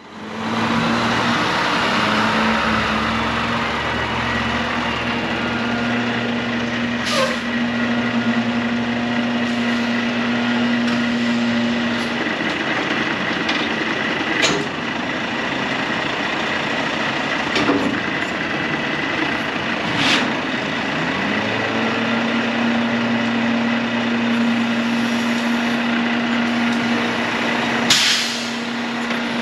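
Volvo D13 diesel engine of a heavy Volvo VHD truck running with a steady hum. Its pitch wavers and shifts in the middle section before settling back to the steady hum. Several short, sharp clicks and hisses stand out over it.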